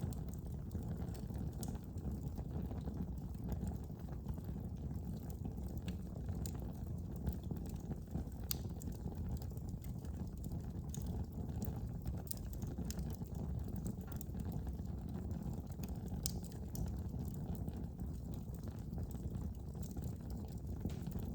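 Fire burning in a fireplace: a steady low rumble of flames with scattered, irregular sharp crackles and pops.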